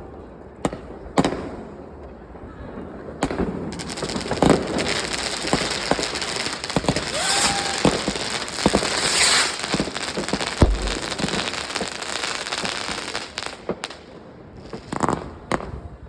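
New Year's Eve fireworks and firecrackers going off: a few separate bangs, then from about three seconds in a dense run of crackling bangs lasting some ten seconds, with a brief whistle in the middle, thinning to scattered bangs near the end.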